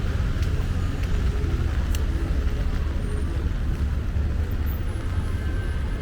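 Steady rumble of city street traffic, with a few faint clicks.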